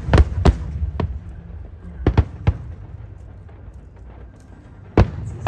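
Aerial fireworks bursting overhead in a string of sharp bangs: three in the first second, three more around two seconds in, and one loud bang near the end.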